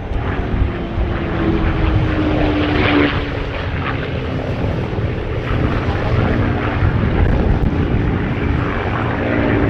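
Merlin V-12 engine of a P-51 Mustang running loud in a display flypast. Its tone drops slightly in pitch about two to three seconds in as it passes.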